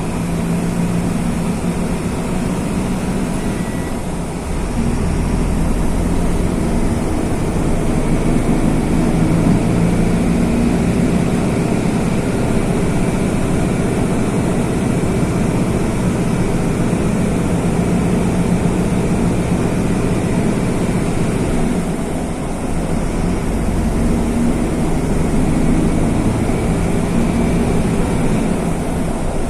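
Mercedes-Benz OF-1519 bus's OM-924 LA four-cylinder turbodiesel running under load while the bus drives. It gets louder about four seconds in and eases briefly a little past twenty seconds before picking up again.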